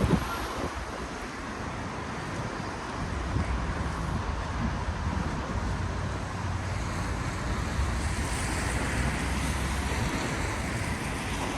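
Steady road-traffic noise on a wet city street: an even hiss of tyres with a low rumble underneath.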